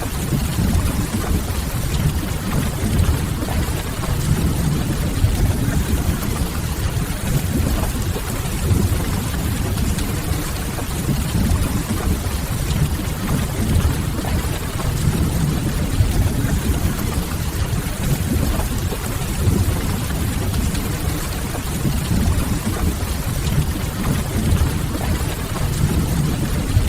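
Steady rain mixed with a crackling wood fire, over a constant low rumble.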